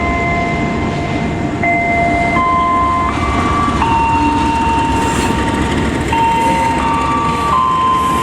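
Passenger train in motion, a steady rumble of the running carriage heard from inside. Over it plays background music of held synth notes that change every second or so.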